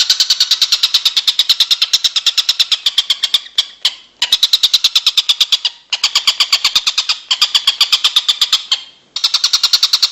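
A songbird's rapid trill of evenly repeated sharp, high notes, about ten a second, broken by brief pauses about four, six and nine seconds in.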